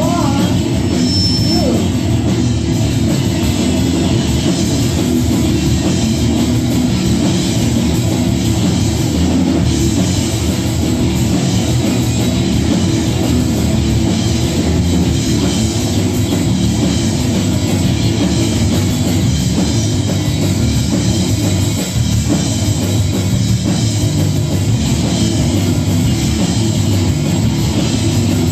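Live rock band playing a song, drum kit and electric guitar, loud and steady.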